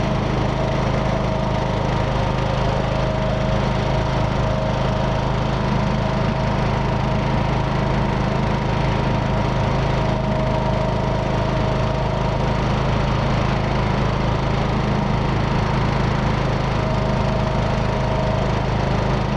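Riding lawn mower's small engine running steadily at mowing speed with a fast, even pulse, exhausting through a refitted muffler.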